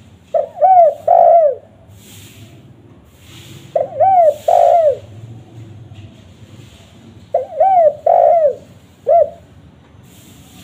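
Spotted dove (tekukur) cooing: three phrases of about three rounded coos each, roughly three and a half seconds apart, the last phrase ending with an extra short coo. This is the male's territorial song used as a lure call.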